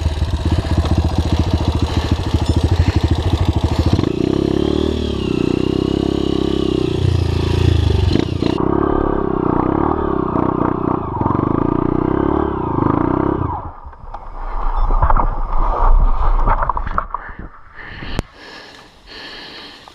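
Off-road trail motorcycle engine running with the throttle varying, then dropping away about two-thirds through, followed by irregular knocks and scrapes.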